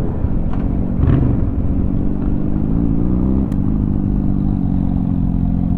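2004 Honda Shadow 750's V-twin engine running steadily under way, heard from a helmet-mounted camera with wind rush. Its pitch eases down a little about three seconds in, and a faint click is heard at that point.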